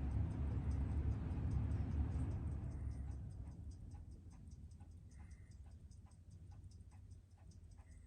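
Ticking of a freshly serviced Seiko 6138 automatic chronograph movement running in, about six ticks a second. A louder low rumbling noise fades away over the first four seconds, leaving the ticks on their own.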